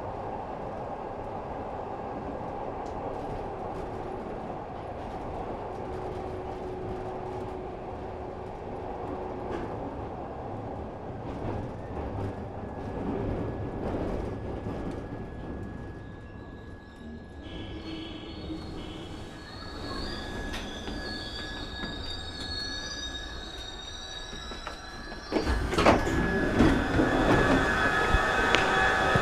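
Glasgow Subway train running through the tunnel with a steady rumble. A little over halfway through, high whining and squealing wheel tones come in, and a sudden louder rush of noise follows near the end.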